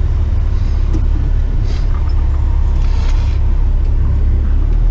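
Tipper truck's diesel engine running with a steady low rumble, with two short faint hisses about two and three seconds in.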